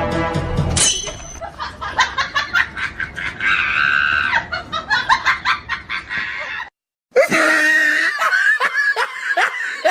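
Music cuts off about a second in and gives way to a squeal and rapid, high-pitched laughing with a held scream, then a sudden brief dropout near the middle and another run of laughing.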